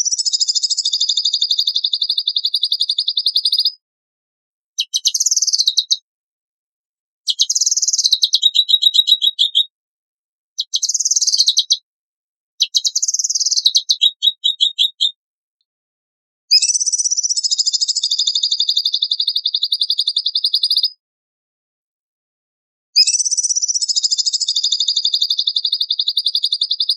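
A songbird singing about seven separate high phrases. Most open with a sharp high note and run into a fast, even, buzzy trill lasting up to about four seconds. The phrases are divided by gaps of one to two seconds of dead silence.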